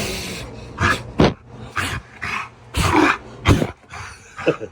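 A dog making a string of short, sharp, noisy vocal bursts, about eight in a few seconds, in excited play.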